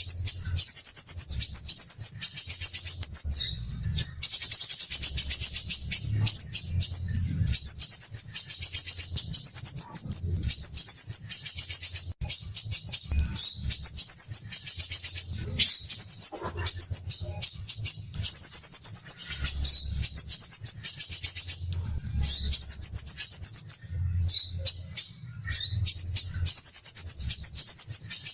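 Crimson sunbird (sepah raja) singing: dense, rapid, high-pitched trills, each a second or two long, repeated with short pauses.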